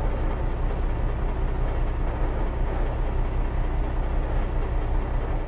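Steady low rumble and road noise of a vehicle underway, with no pitch or rhythm to it.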